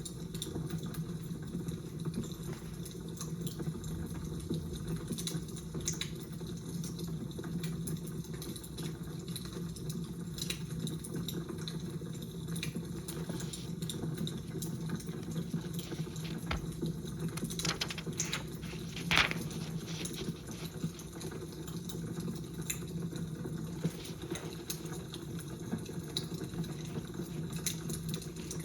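Crackling fire: a steady low rush with scattered small pops and snaps, one louder crack about nineteen seconds in.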